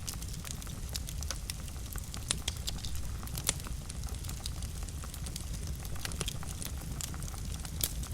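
Wood fire burning in a fireplace, crackling with many irregular sharp pops and snaps over a low, steady rumble of the flames; a few pops stand out louder.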